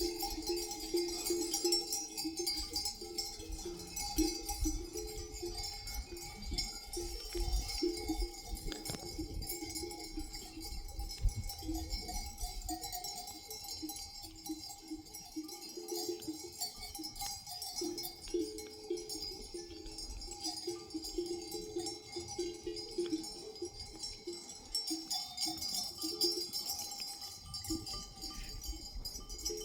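Bells on a flock of sheep clanking irregularly, many ringing at once and overlapping, as the animals move and graze.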